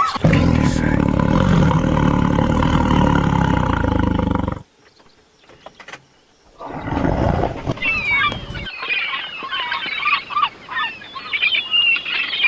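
Animal sounds: a low rumbling growl for about four and a half seconds, a short silence, then a brief low sound followed by many overlapping high-pitched bird calls.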